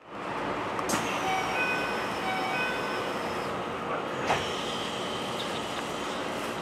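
Steady interior noise of a Keikyu New 1000 series electric train car, with a short pitched tone sounding three times in quick succession about a second in, a faint falling whine, and sharp clicks near the start and about four seconds in.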